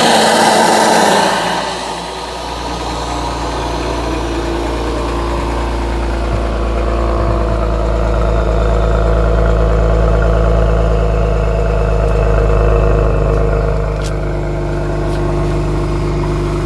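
Genesis G70's engine, with an aftermarket downpipe and HPS intake, running on a cold start: louder for the first two seconds or so, then settling into a steady low idle.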